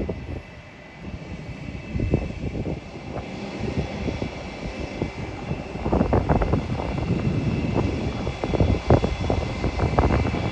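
Airliner engines whining and rumbling, building up about three seconds in as the aircraft draws nearer. Gusts of wind buffet the microphone throughout.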